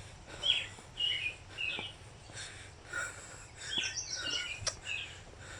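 Songbirds chirping: a string of short, quick notes, some sliding in pitch, coming every half second or so.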